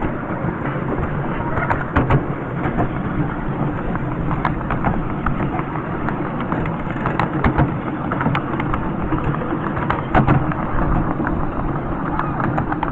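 Miniature railway train running along the track: a steady rumble with irregular sharp clicks and knocks from the wheels and coaches.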